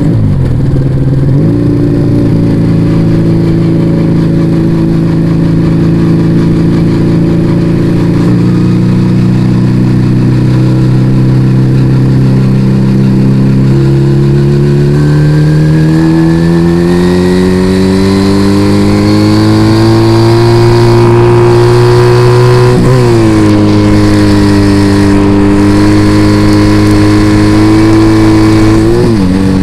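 Yamaha Vega ZR motorcycle engine through an aftermarket Arrow exhaust while riding. It holds a steady cruising note, then climbs gradually in pitch as it accelerates from about halfway. A brief dip near the top of the climb sounds like a gear change; it then holds steady and falls off near the end as the bike slows.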